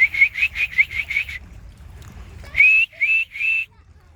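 High whistling: a fast run of short chirped notes, about seven a second, that stops about a second and a half in, then after a pause three longer whistled notes that rise and then hold.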